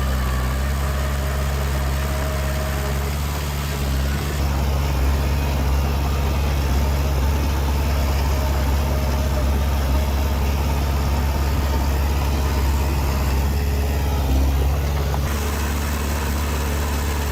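Bulldozer's diesel engine running with a steady deep drone, changing slightly about four seconds in and again near the end.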